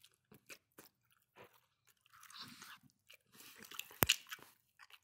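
Close-up chewing and biting on baked chicken, with small crunches and wet mouth sounds coming in irregular bursts. A single sharp click about four seconds in, as a piece is bitten off at the mouth, is the loudest sound.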